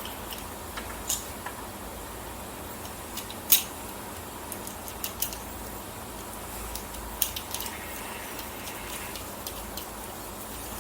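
Sporadic light clicks and taps of hand-tool work as a screw is fitted to a ceiling light's mounting, with the sharpest click about three and a half seconds in and a small cluster near the end.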